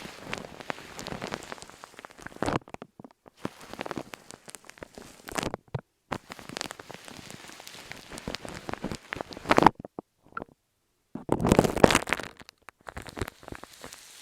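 Close-miked ASMR trigger sounds: irregular crackling and squishing in bursts, broken by short silent gaps, with the loudest burst near the end.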